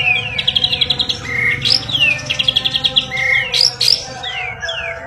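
White-rumped shama (murai batu) singing: fast trills of rapidly repeated notes alternate with short downward-sliding whistles and a couple of sharp rising notes, over a faint steady hum.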